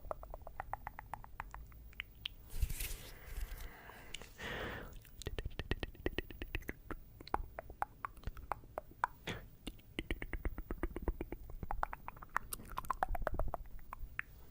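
Close-miked tongue clicking: fast runs of wet mouth clicks, with two short breathy sounds a few seconds in.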